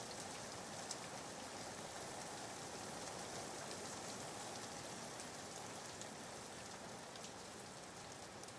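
Soft, steady rain ambience, a faint even hiss of falling rain with light drop ticks, used as a white-noise bed.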